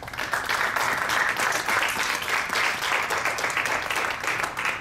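Audience applauding, a dense patter of many hands clapping that starts suddenly and fades out near the end.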